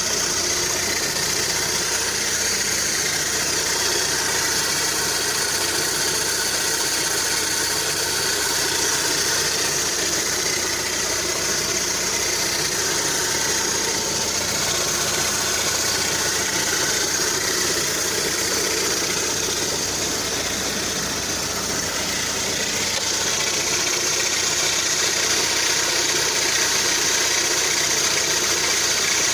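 Lada Kalina 2's VAZ-21126 engine idling steadily while part-warm, with a light ticking that the owner takes for a hydraulic lash adjuster knocking on a hot engine.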